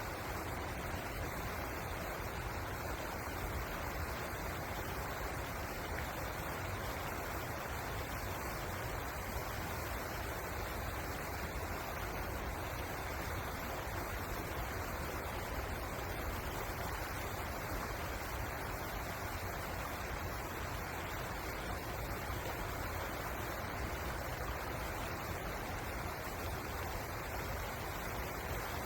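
Steady rushing of river water flowing, an even noise that does not change.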